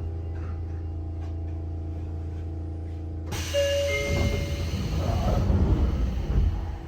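Sotetsu 8000 series electric train standing at a station with its on-board equipment humming steadily. About three seconds in comes a burst of air hiss with a short electronic chime, then a couple of seconds of louder rumbling and knocking as the doors close before departure.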